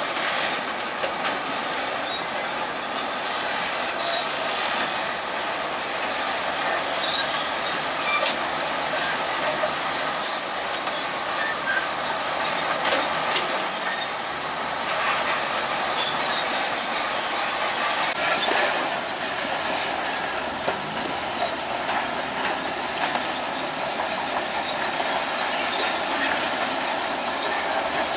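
Bulldozer at work: its diesel engine running under the steady clatter and squeal of its steel crawler tracks.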